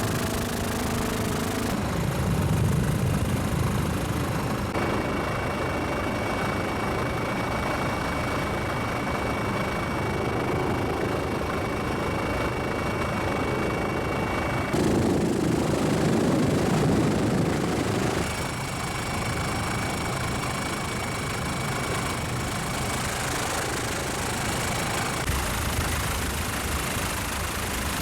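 Helicopter engine and rotor noise running steadily, with a faint whine above it; its character shifts abruptly a few times.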